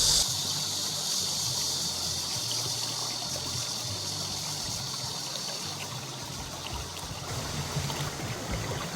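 Valley stream water flowing and trickling steadily.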